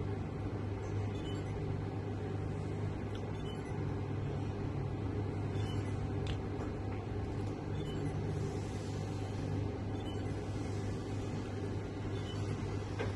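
A steady low mechanical hum, unchanging throughout, with no distinct events.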